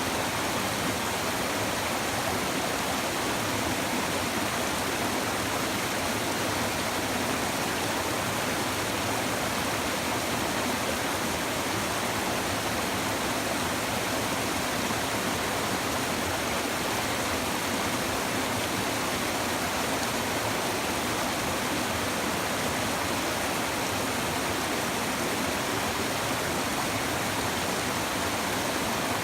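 Shallow river babbling: a steady, even rush and murmur of flowing water that does not change.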